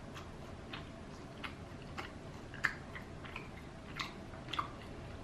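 A person chewing crispy Popeyes fried chicken, with faint sharp crunches of the coating coming every half second or so.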